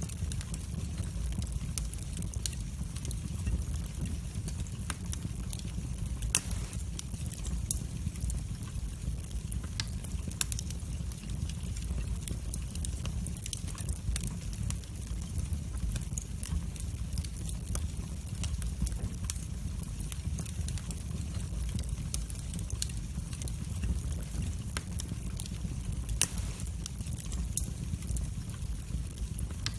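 Wood fire burning in a fireplace: scattered sharp crackles and pops over a steady low rumble of flame, with two louder pops, about six seconds in and near the end.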